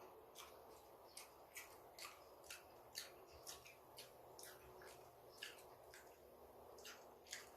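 Close-up eating sounds: chewing with short, wet mouth smacks, about two a second and irregular, faint.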